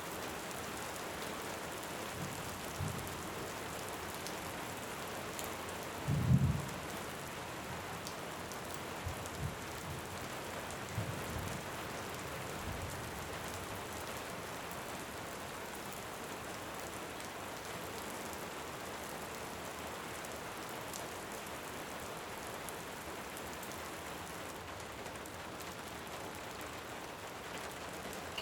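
Steady rain with distant thunder rumbling low several times in the first half, the loudest rumble about six seconds in.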